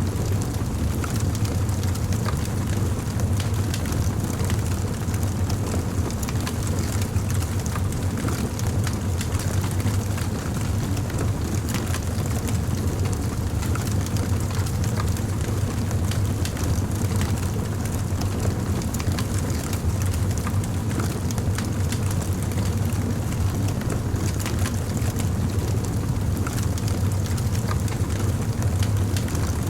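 Fire crackling steadily: scattered small pops and snaps over a constant low rumble.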